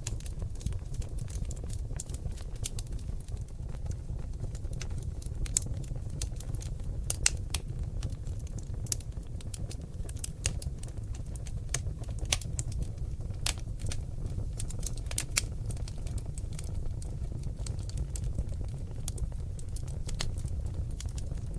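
Seasoned oak logs burning in a fireplace, crackling with many sharp, irregular pops over a steady low rumble of flames. A few pops stand out louder than the rest.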